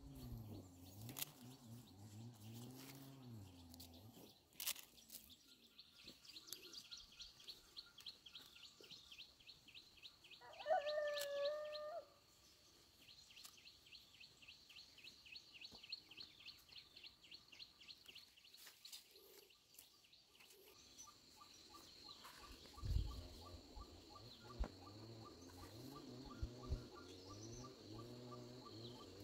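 Faint outdoor ambience of birds chirping in quick, repeated high notes, with one louder call lasting about a second near the middle.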